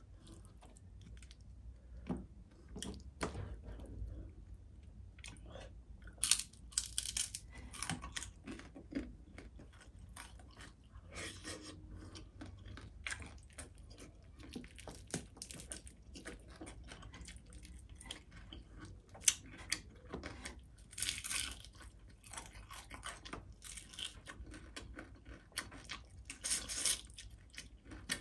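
Close-up eating by hand: chewing and crunching of crispy fried tilapia, with many small clicks as fingers pick at the fish. The loudest crunching comes in bursts about six, twenty-one and twenty-six seconds in.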